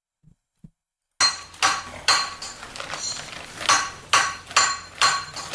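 Hammer striking a steel knife blade, a series of sharp metallic taps that ring out, starting about a second in and coming irregularly about two a second. The blade is being hammered straight after it came back slightly bent.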